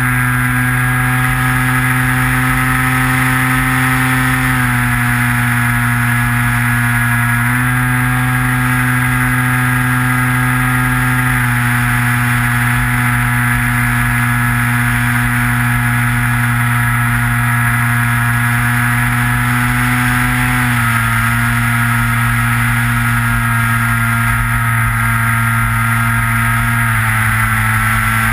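Electric motor and propeller of a Skywalker RC plane, heard from its onboard camera, running with a steady droning whine. The pitch steps down and up a little several times as the throttle changes in flight.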